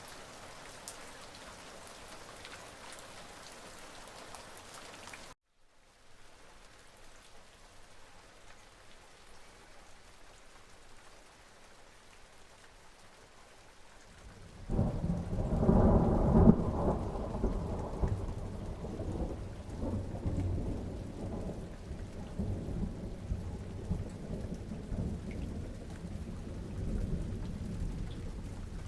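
Steady rain hiss that breaks off for an instant about five seconds in and returns softer. Near the middle a thunderclap starts suddenly, peaks over the next couple of seconds, then rolls on as a long low rumble under the rain.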